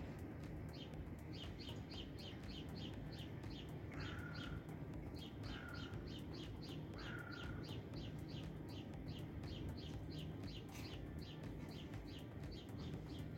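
Birdsong: a bird repeats quick high chirps at about five a second in runs with short breaks. A lower short call sounds three times between about four and seven and a half seconds in.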